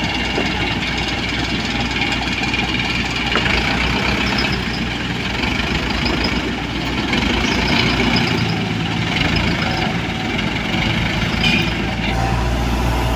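Komatsu PC75UU mini excavator's diesel engine running steadily, with a thin high whine over it.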